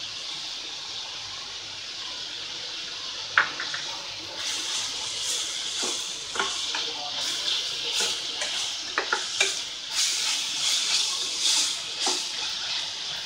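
Grated carrot and onions sizzling in oil in a stainless steel kadai, stirred with a steel spatula that clicks and scrapes against the pan. The sizzle grows louder about four seconds in.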